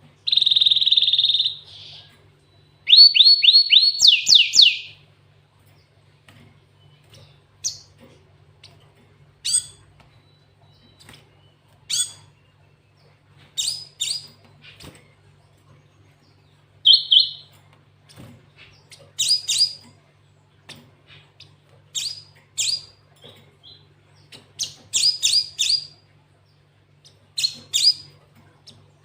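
Cinereous tit (glatik watu) singing, including canary-style phrases it has been trained to copy. It opens with a loud, held trill lasting about a second and a half, then a quick run of repeated descending notes. The rest is short separate chirps and quick note pairs with gaps between them, over a faint steady low hum.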